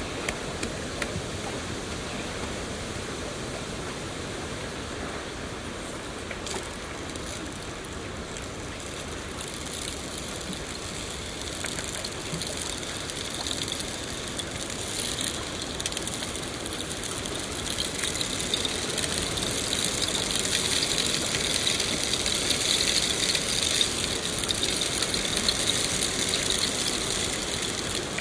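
Steady rainfall, an even hiss with scattered drop ticks, growing louder and brighter from about halfway through.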